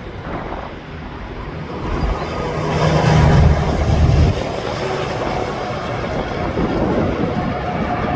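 Interstate traffic passing, with a heavy truck's deep engine drone swelling and passing about three to four seconds in, then steady tyre and traffic noise.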